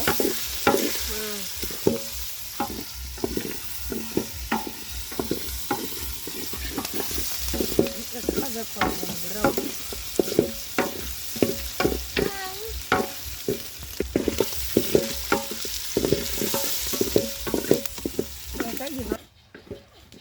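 Meat frying and sizzling in a pot while a spoon stirs it, with repeated scrapes and knocks of the spoon against the pot. The sound stops suddenly near the end.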